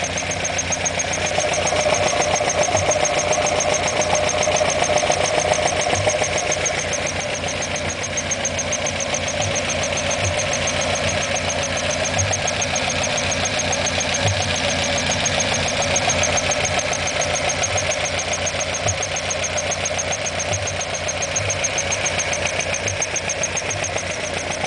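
Alfa Romeo Alfetta GTV 2.0's twin-cam four-cylinder engine running steadily, a little louder for a few seconds near the start.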